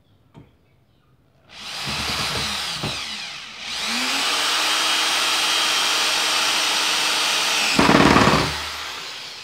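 Bosch GSR 7-14 E corded drill/driver running under load as it drives a screw into wood: the motor starts about a second and a half in, eases briefly, then runs steadily with its pitch rising as the trigger opens. Near the end there is a short, louder rattle before the motor winds down.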